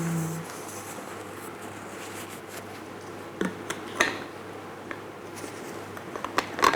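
Scattered light clicks and knocks of kitchen utensils and dishes being handled, over a low steady room hum, with a small cluster of clatters near the end. A held voice tone trails off right at the start.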